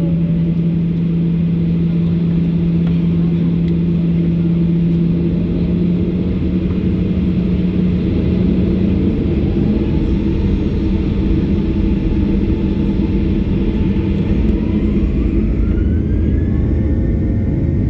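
Cabin noise of a Boeing 737-800 with its CFM56 turbofan engines: a steady low rumble and hum, with a whine rising in pitch over the second half as the engines spool up.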